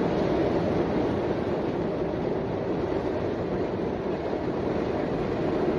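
Steady rumbling noise of a moving vehicle heard from inside it, even throughout with no distinct events.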